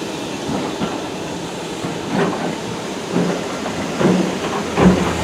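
Train running along the line, a steady rumble with a repeating clack of wheels over rail joints about every three quarters of a second.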